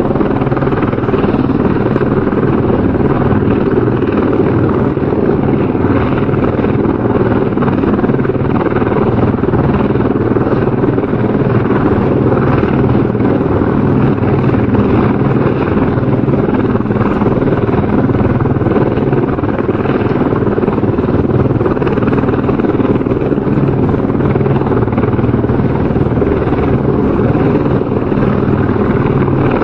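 Helicopter rotor and engine noise: a steady, loud, continuous rumble with a rapid flutter from the rotor blades.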